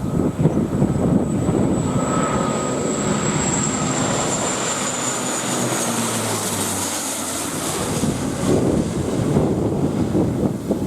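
Jet airliner passing low overhead on landing approach. Its engine whine falls slowly in pitch as it goes by, over the low buffeting of strong wind on the microphone.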